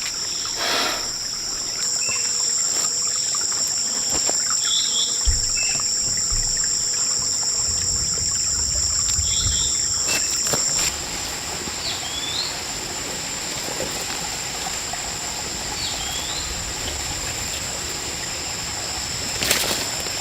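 Rainforest insects keeping up a steady high-pitched drone, with a few short bird calls over it.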